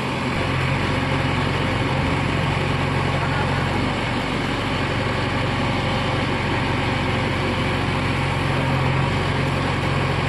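Heavy diesel engine running steadily at low revs, with a constant low hum.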